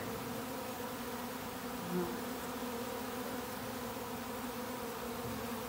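Honey bee swarm buzzing: a steady, many-bee hum of bees flying and settling on the hive box.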